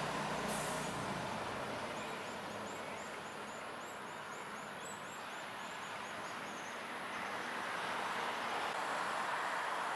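A bird gives a quick run of short, high chirping notes, about four or five a second, lasting a few seconds, over a steady background noise like distant traffic.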